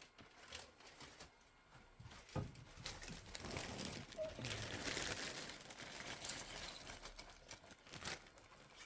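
Handling noise from 3D-printed plastic parts being moved and set out: scattered light knocks and clicks, with a rustling hiss from about three seconds in to about seven seconds in.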